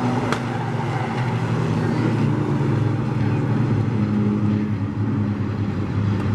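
Several racing pickup trucks' engines running together around a short oval track, a steady drone of overlapping engine pitches that drift up and down.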